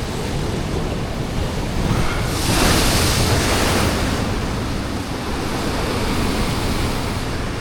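Ocean surf against a rock ledge, with wind on the microphone. About two and a half seconds in, a wave breaks and washes in louder, then dies back after about two seconds.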